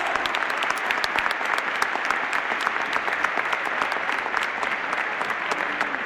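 An audience applauding steadily: many hands clapping.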